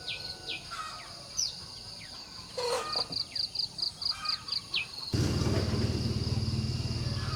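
Small birds chirping, with short falling calls and a quick trill of about ten repeated notes, over a steady high hum. About five seconds in, a loud, low rumble with a fast, even pulse starts abruptly and drowns them out.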